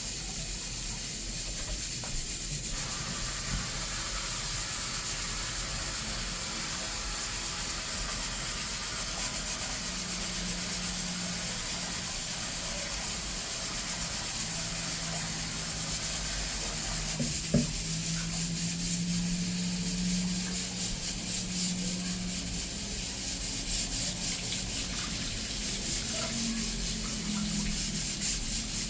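Tap water running into a sink or pot while rice is washed, an even rushing hiss. A low steady hum joins about a third of the way in, and there is one sharp knock near the middle.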